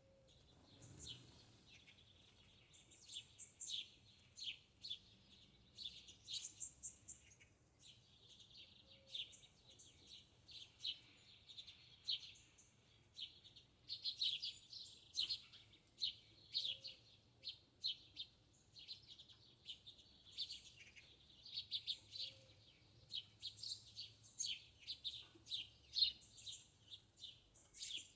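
Small birds chirping and twittering: a busy run of short, high chirps all through, some louder than others.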